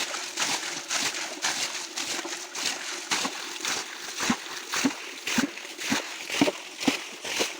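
Shallow stream water splashing and sloshing in a steady rhythm, about two splashes a second, with duller thuds in the strokes from about halfway through.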